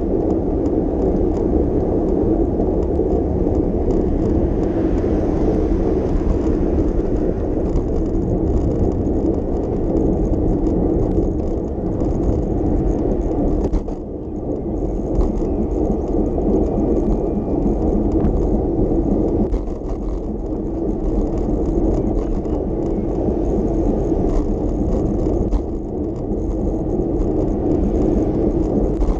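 Steady city-street noise heard from a moving bicycle: a continuous low rumble of road, wind and passing traffic, dipping briefly a couple of times.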